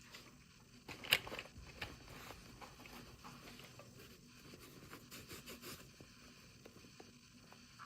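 Small clicks, taps and scraping rustles of toy packaging being handled and opened, with a sharp tap about a second in and a quick run of clicks a few seconds later.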